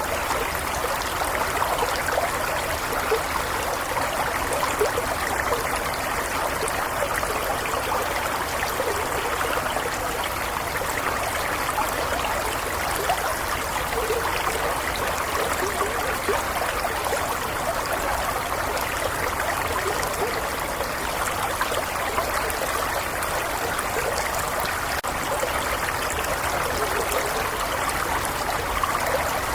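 Small stream flowing steadily: an even rush of water with fine trickling and babbling over stones, at a constant level.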